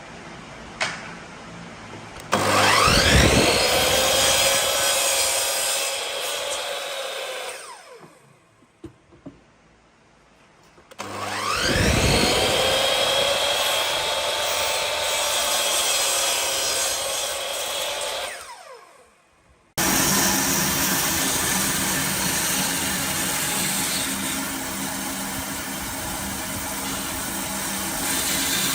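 An electric woodworking power tool is switched on twice. Each time its motor whines up to speed, runs steadily for several seconds, then winds down. About two-thirds of the way through, the sound cuts abruptly to a steady machine noise that carries on.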